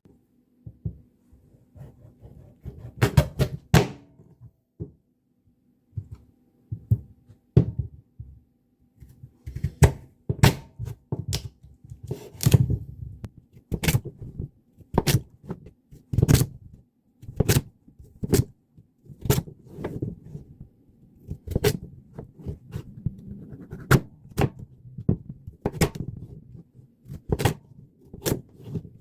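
Household handling sounds: a string of sharp knocks and clicks about once a second, with softer low thuds between them and a faint steady hum.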